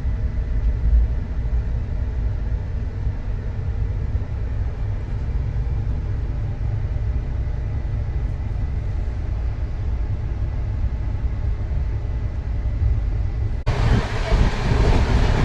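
Steady low rumble of a moving train heard from inside the carriage. Near the end it switches abruptly to a louder, brighter running noise.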